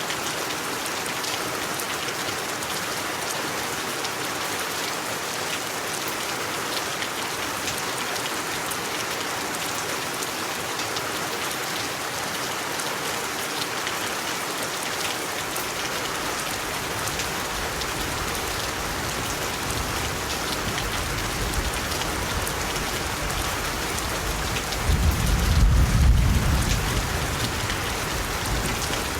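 Steady heavy rain falling, with a deep rumble of thunder that builds in the second half and peaks a few seconds before the end, then dies away.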